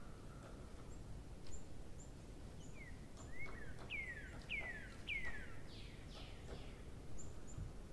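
A bird calling in the background: a run of about five quick falling chirps about three seconds in, with a few short high chirps around them, over a steady low hiss.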